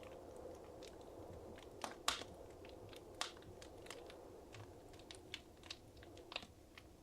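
Wood fire crackling in a fireplace: irregular sharp pops and snaps, a louder pair about two seconds in, over a soft low hiss of burning.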